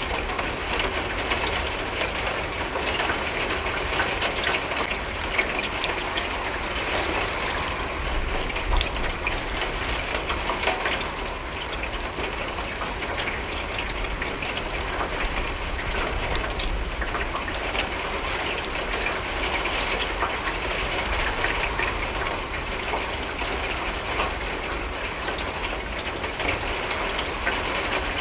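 Steady rain falling on a window, a constant hiss dotted with many small drop hits, with a low rumble underneath.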